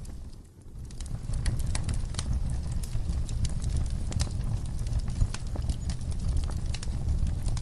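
Wood fire burning in a fireplace: a steady low rumble of flames with irregular sharp crackles and pops. The sound dips briefly almost out about half a second in, then carries on.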